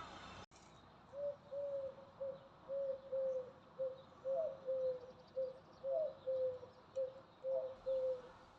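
A bird calling: a run of about fifteen short, low hooting notes at roughly two a second, several with a quick upward flick in pitch. It follows an abrupt cut in the background noise about half a second in.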